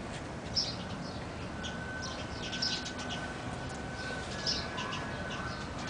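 Wild birds chirping: short, high calls repeating every second or two over steady background noise, with a faint steady high tone running under them from about a second and a half in.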